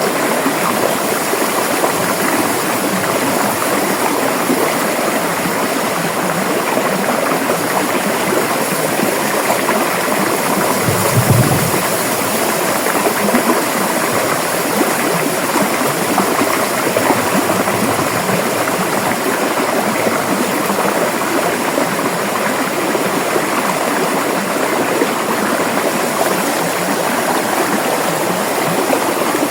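River water flowing in a steady, even rush. A brief low thump sounds about eleven seconds in.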